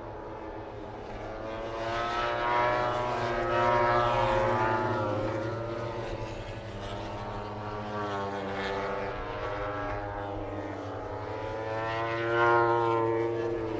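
Racing motorcycle engines at high revs passing by, rising and falling in pitch as they go past, loudest a few seconds in and again near the end.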